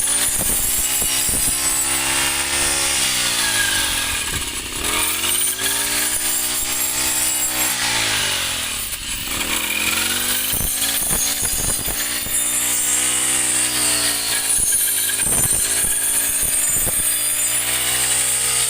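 Small petrol engine of a rice-cutting machine running as it cuts rice stalks. Its pitch rises and falls again and again as the engine is revved and loaded, and there are short rasping hits as the stalks are cut.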